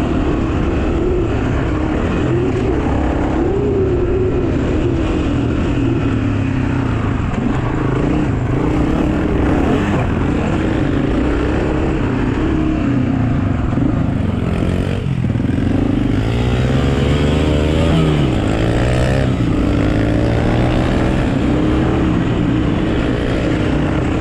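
Pit bike engines running and revving, their pitch rising and falling with the throttle.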